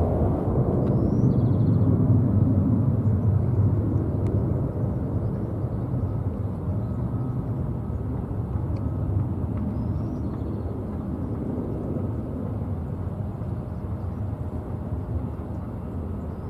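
Jet airliner's engines rumbling as it passes, loudest about two seconds in and then slowly fading.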